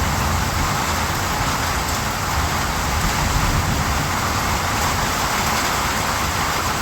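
Steady rain: an even, unbroken hiss with a low rumble beneath it.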